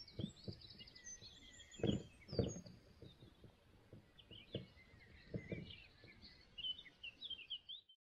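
Outdoor ambience of songbirds chirping and singing, with several dull low thumps scattered through it, the loudest about two seconds in.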